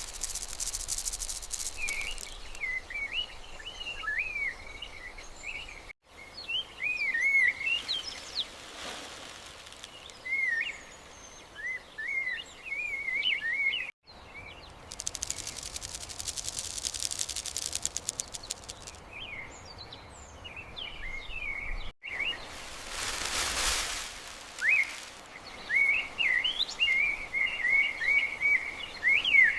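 Birds chirping and warbling continuously in short high phrases, with a few bouts of a high, rapid, buzzing trill lasting two or three seconds each.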